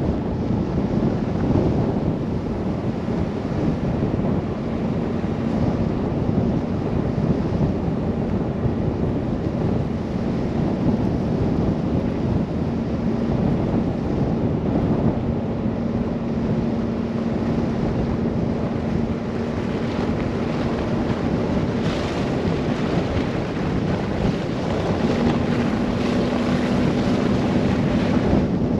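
Blizzard wind rumbling and buffeting the microphone on a moving car, a dense, even noise weighted to the low end. A faint steady hum runs underneath.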